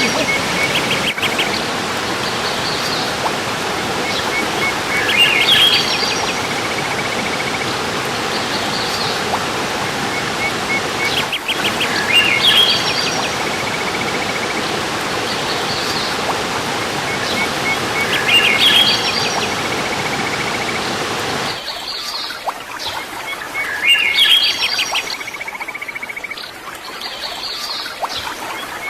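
Songbird singing the same short phrase of chirps and a trill about every six and a half seconds, over the steady rush of a waterfall. The water sound cuts off suddenly about two-thirds of the way through, leaving the birdsong.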